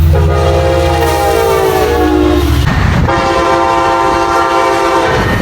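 Diesel locomotive's multi-note air horn sounding two long blasts over the heavy rumble of the passing train. The first blast falls in pitch near its end.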